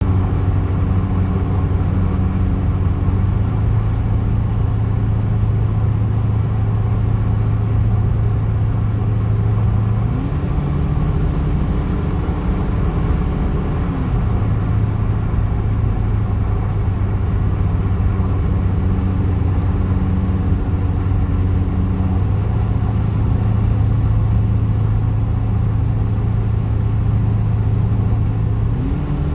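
Car engine running at a steady drone that holds distinct notes: a low hum most of the time, stepping up to a higher note for about four seconds a third of the way in and again near the end, like a three-note tune.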